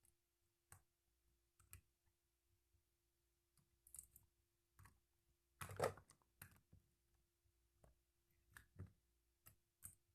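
Faint, scattered small clicks and crackles at irregular intervals, the loudest a short crackle about six seconds in, over a faint steady hum.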